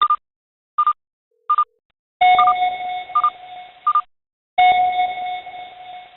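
Electronic alert signal: three short beeps about three quarters of a second apart, then two longer held tones, with three more beeps sounding over the first. It is the alarm of a seismic monitoring stream sounding for a detected earthquake.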